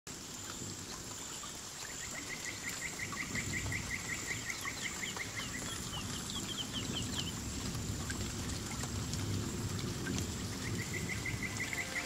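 Tropical forest ambience: a bird calls in rapid runs of short rising notes, about five a second, with a higher run midway and another starting near the end. Under it run a faint steady high-pitched whine and a low rustling background.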